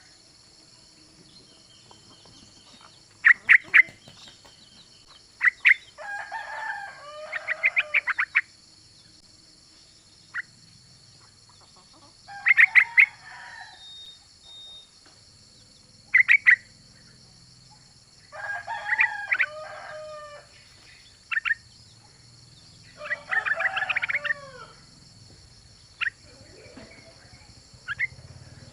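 Female sooty-headed bulbul (trucukan) calling: sharp single chip notes and bubbly, warbling chatter phrases, repeating every few seconds. This is the female's call to a male, used as a lure call to set male bulbuls singing.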